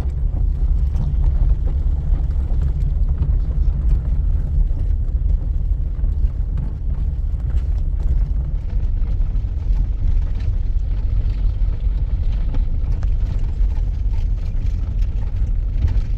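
Steady low rumble of a vehicle being driven: engine and road noise with no change in pitch.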